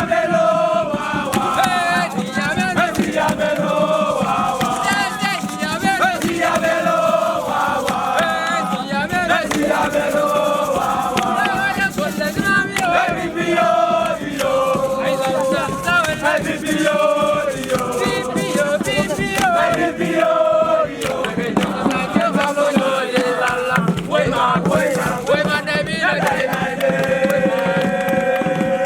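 A crowd of young voices singing a chant together in unison, with many sharp beats throughout.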